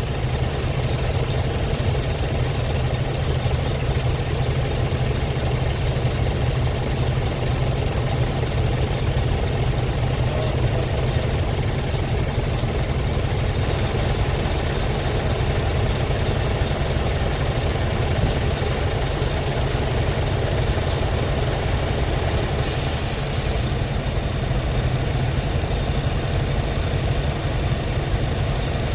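Scania R tractor unit's diesel engine idling steadily with a low, even drone.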